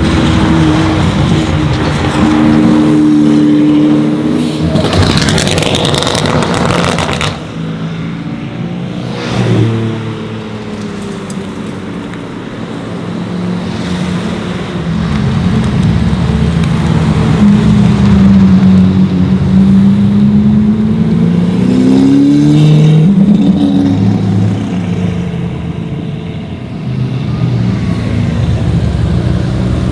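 Lamborghini Aventador V12 through an FI aftermarket exhaust, running loud with the revs rising and falling several times; it drops quieter for several seconds about a third of the way in, then climbs again.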